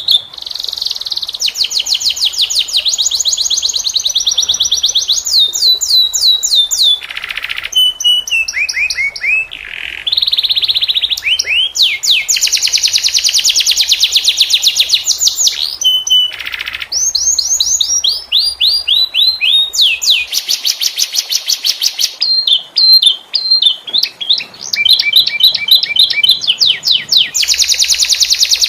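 Domestic canary singing a long, continuous song of fast rolling trills, each run of rapidly repeated notes giving way to a new phrase every few seconds, some notes sweeping down or up in pitch.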